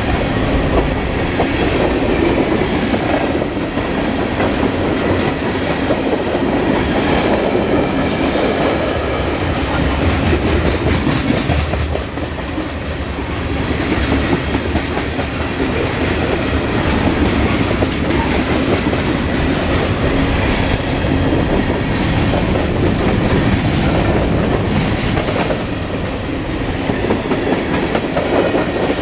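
Freight train cars rolling past at speed: steady wheel-and-rail rumble with a continuous clickety-clack of wheels over rail joints.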